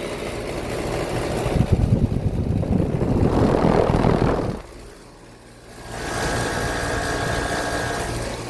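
Outdoor air-conditioner condensing unit running with a sound the owner calls very weird: an irregular, rough rumble that drops away suddenly about halfway through, then a steady hum with a held tone.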